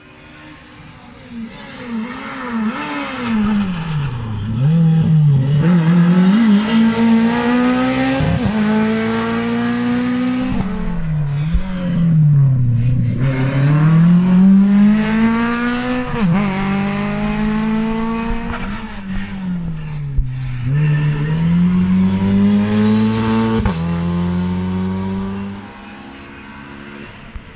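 Rally car engine revving hard through the gears. The pitch climbs, drops back at each shift, then falls away under braking for a bend, several times over. It grows louder as the car approaches and fades away near the end.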